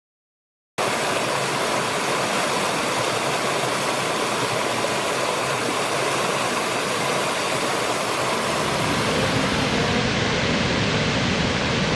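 Steady rushing water, starting abruptly about a second in and running at an even level.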